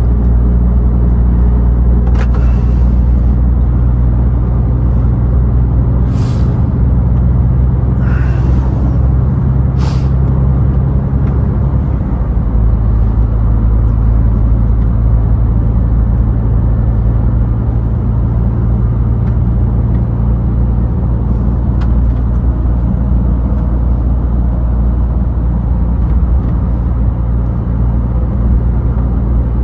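Scania truck's diesel engine running steadily with road rumble. Its note shifts about twelve seconds in, and several short hisses come in the first ten seconds.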